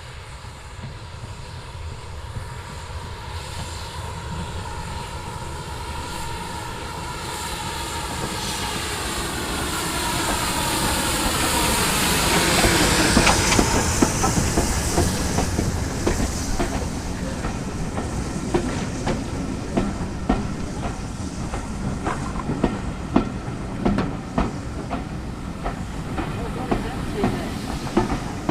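A train approaches, growing steadily louder, passes at speed about halfway through, then its carriage wheels click and clatter over the rail joints as the coaches go by.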